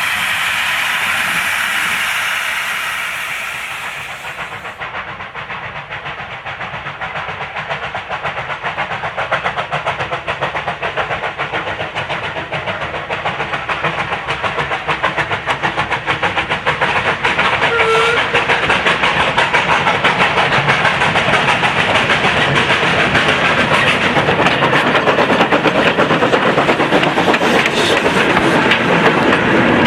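Steam locomotive and its train: a loud hiss of steam for the first four seconds or so, then a fast, even clatter of the working train growing steadily louder as it comes nearer. A brief short high note sounds about eighteen seconds in.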